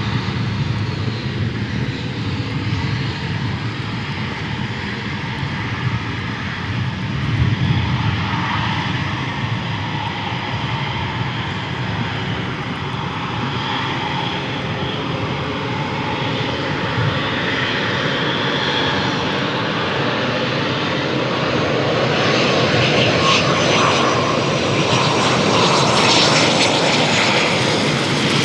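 Eurofighter Typhoon fighter jet coming in to land, its twin EJ200 turbofans giving a steady jet rumble that grows louder and more hissing over the last few seconds.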